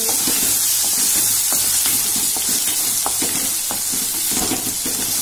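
Chopped tomato and onion sizzling in hot oil and ghee in a metal kadhai, stirred with a wooden spatula that scrapes and taps against the pan many times.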